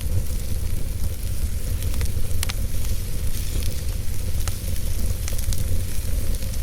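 Wood fire burning in a fireplace: a steady low rumble and hiss of the flames, broken by a few sharp crackles and pops of the burning logs, the clearest about two and a half seconds in.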